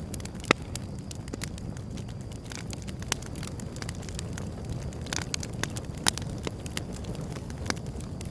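Wood fire crackling, with sharp pops scattered over a low, steady rumble of burning. The loudest pop comes about half a second in.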